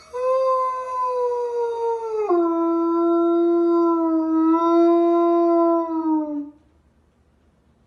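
A dog howling: one long howl that drops to a lower pitch about two seconds in, holds there, and trails off downward about six and a half seconds in.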